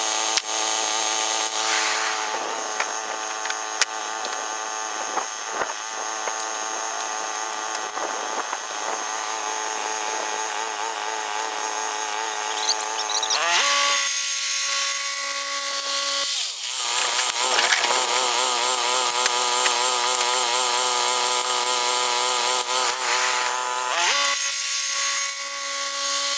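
Woodland Mills HM122 portable bandsaw sawmill running under power, its gas engine driving the band blade through a large pine log. The engine note steps to a different pitch twice, about halfway through and again near the end.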